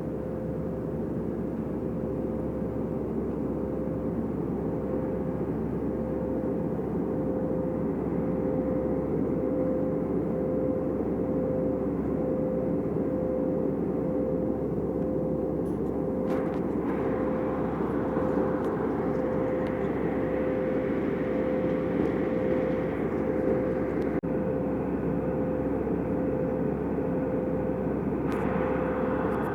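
Steady cabin noise of a jet airliner in flight: a constant drone of engine and airflow with a steady hum, growing somewhat brighter about two-thirds of the way in.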